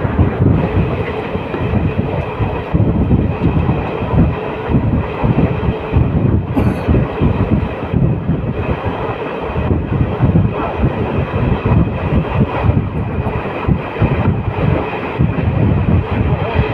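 A train running along the track: a loud, steady rattle of wheels over the rails, with a faint high whine above it.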